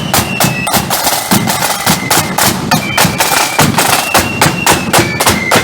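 Marching flute band playing: a high melody on flutes over rapid snare drumming and bass drum beats.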